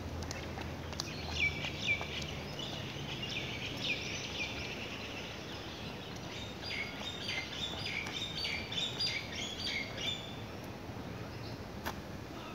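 Small birds chirping in two runs of quick high calls, the first starting about a second in and the second from about six to ten seconds in, over steady low outdoor background noise.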